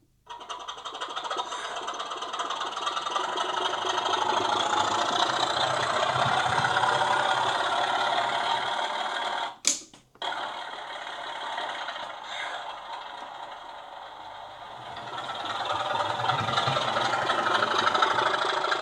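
OO gauge model Class 24 diesel locomotive running on a rolling-road test rack: the whir of its motor and gears mixed with its sound decoder's diesel engine sound. It builds up over the first few seconds, cuts out briefly about ten seconds in, runs quieter for a while, then builds up again near the end.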